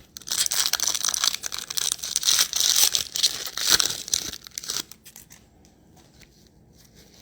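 Foil wrapper of a trading-card pack being torn open and crinkled, a dense crackling for about five seconds, then only a few faint rustles.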